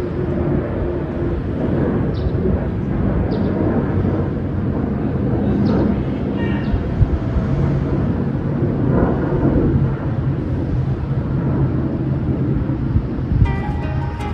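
Airplane engine noise, a steady low rumble outdoors, with music coming in near the end.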